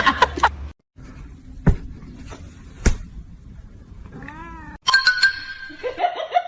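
A cat gives one short meow, rising then falling, about four and a half seconds in, after two soft knocks.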